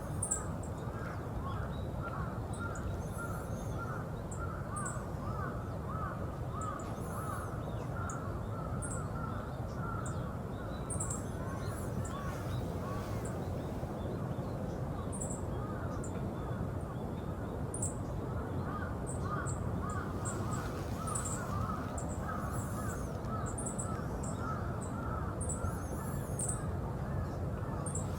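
Yellow-throated bunting giving short, thin, high call notes every second or so, over many lower calls that sound like crows cawing and a steady low background rumble.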